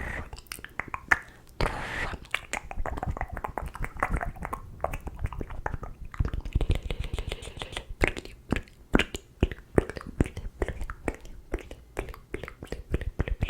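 Close-miked ASMR mouth sounds: rapid, irregular wet clicks and pops of the tongue and lips, with a breathy whisper-like hiss about two seconds in.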